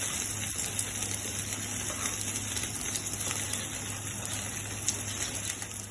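Oil sizzling steadily in a pan around frying dried-fish fritters wrapped in pumpkin leaves, with faint scattered crackles.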